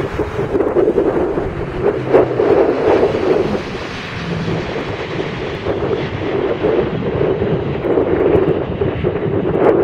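Jet noise from Blue Angels F/A-18 Hornets passing, its high hiss thinning out about halfway through as they move away, with wind buffeting the microphone.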